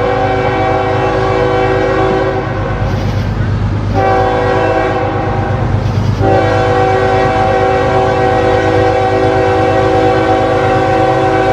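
CSX freight locomotive's air horn blowing long blasts, with short breaks about two and a half seconds and six seconds in, over the steady low rumble of the passing diesel train.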